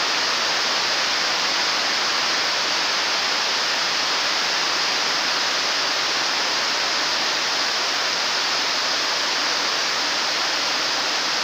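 Heavy rain falling on the metal canopy roof over a car lot, heard as a dense, even hiss with no let-up.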